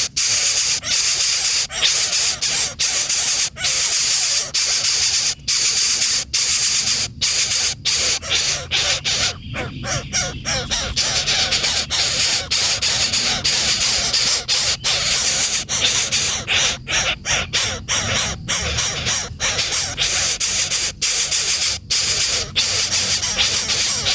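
Coucal giving a continuous harsh, raspy hissing call, broken by many short gaps.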